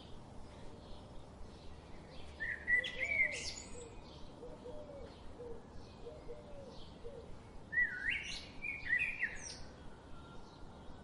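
Birds calling: two loud bursts of quick rising and falling notes, about three seconds in and again at about eight seconds. Behind them run faint short high chirps, repeating about twice a second, and a few soft low notes in the middle.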